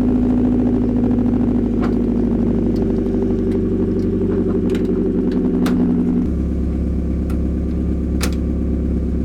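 Mazda Miata engine idling through a freshly welded dual exhaust, just started and warming up. About six seconds in the idle steps down to a lower speed, and a few faint sharp ticks sound over it.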